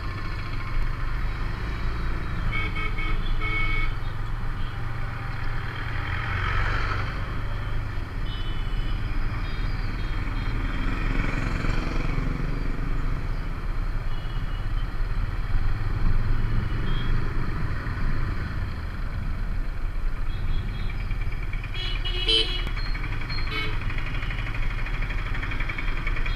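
Motorcycle engine running steadily while riding, with vehicle horns beeping briefly a few times.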